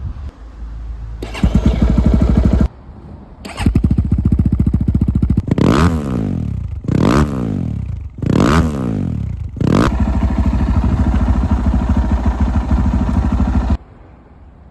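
Regulmoto Nibbi 300 motocross bike engine starting up, stopping briefly, then running again, with three quick throttle blips that rise and fall in pitch, before settling into a steady run that cuts off abruptly near the end.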